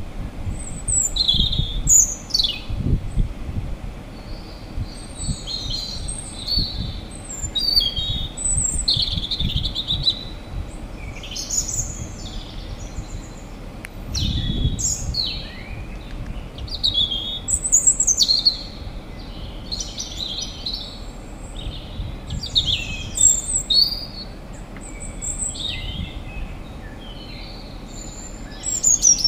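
Small birds chirping, many short high calls coming one after another and overlapping, with a low rumble swelling a couple of times underneath.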